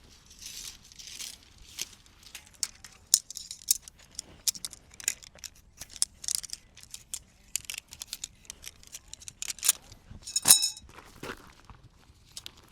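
Small hard objects being handled: a run of irregular clicks and clinks with light rustling, and one louder ringing clink, like metal or glass, about ten seconds in.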